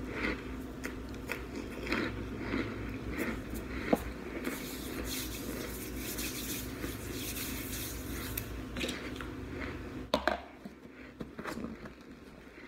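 Close-up chewing and crunching of crumbly baked chunks of white powder, in many short crisp crackles. Midway there is a soft dry rubbing as powdery hands are brushed together. Just after ten seconds a plastic lid is pressed onto the tub with a sharp knock.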